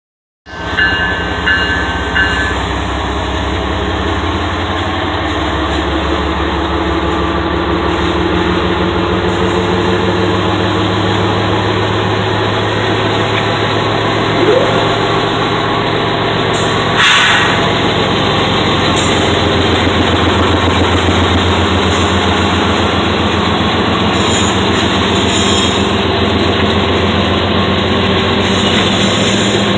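Diesel locomotives of a CSX freight train running steadily as the train rolls in, a loud continuous engine drone with a low pulsing beat. A single sharp knock sounds a little past halfway.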